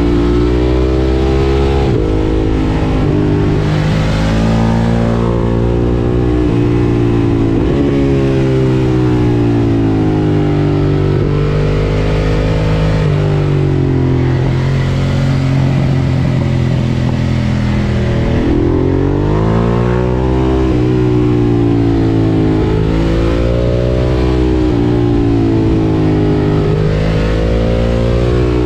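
Ducati Monster 1200 S's L-twin engine running through an Akrapovič exhaust while being ridden: the engine note repeatedly climbs under acceleration and falls back at gear changes and when easing off. It holds steady for a few seconds around the middle.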